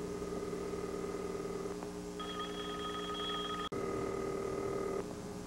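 Telephone ringing heard over the line, a steady electronic ring in bursts of about a second with short gaps between them, and nobody picks up.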